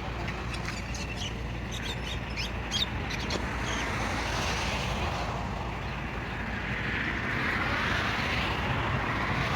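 Low steady engine rumble with a road vehicle passing, swelling and fading in the second half, and a few light clicks in the first few seconds.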